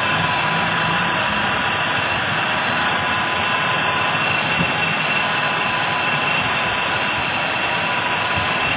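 Car engine idling steadily, with a thin steady whine over the running noise.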